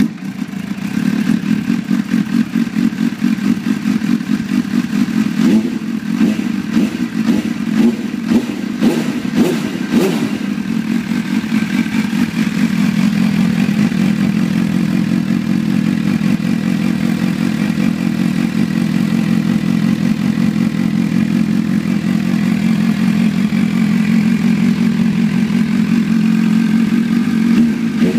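MV Agusta F4 inline-four motorcycle engine running through an MV Corse F1 titanium exhaust, mostly idling steadily, with a few short blips or sharp pulses roughly six to ten seconds in.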